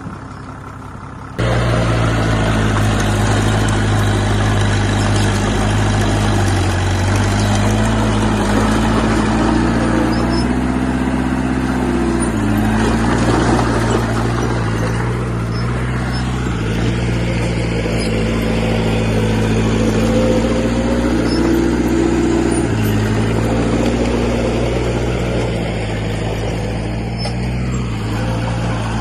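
Heavy diesel engine of earthmoving equipment running under load, its pitch rising and falling as the throttle is worked. It starts quieter and jumps suddenly to full loudness about a second in.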